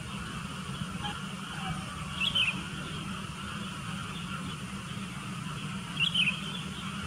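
Sooty-headed bulbul giving two short, quick chirping calls about four seconds apart, over a steady low hum.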